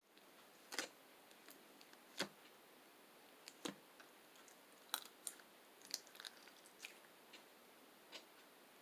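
Chocolate slime being pressed and stretched by hand, giving about ten small sharp pops and clicks at irregular moments over a faint hiss.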